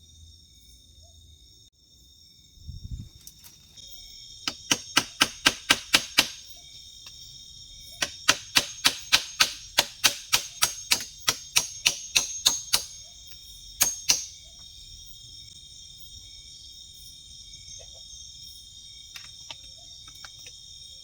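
Quick runs of sharp, hard knocks, about five a second, in two bursts with a pair of single knocks after, over a steady high chirring of night crickets.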